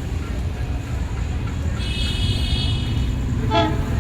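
Deep steady rumble of a train drawing near. A thin high-pitched whine rises over it for about a second, two seconds in, and a short pitched call sounds just before the end.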